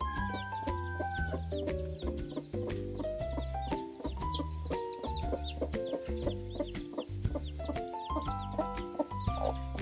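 Chickens calling in short, high, repeated notes, clustered about four seconds in, over background music with a stepping melody and steady bass.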